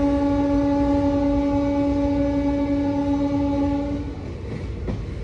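Train horn sounding one long steady blast that stops about four seconds in, over the low rumble of a train.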